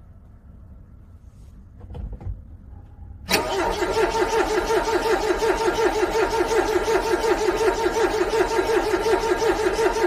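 Car engine being cranked by its starter motor in freezing cold, a loud rhythmic churning that starts suddenly about three seconds in and keeps an even pace without the engine catching: a cold engine struggling to start. A brief low thump comes just before it.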